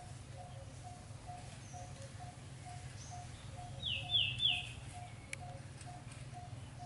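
Birds calling: a steady series of short low notes repeating about twice a second, and about four seconds in, three quick, sharp, falling chirps, the loudest sounds here. A low steady hum sits underneath.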